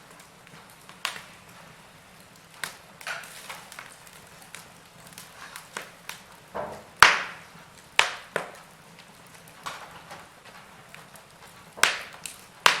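Logs burning in a fireplace, crackling with irregular sharp pops and snaps; the loudest pop comes about seven seconds in.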